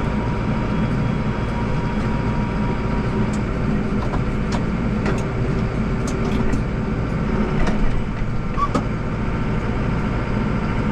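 Deutz-Fahr 5120G tractor's engine running steadily, with a few light clicks and knocks through the middle.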